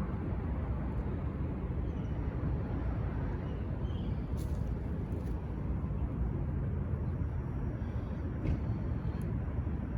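Steady low outdoor rumble, with a few faint seagull calls in the first half.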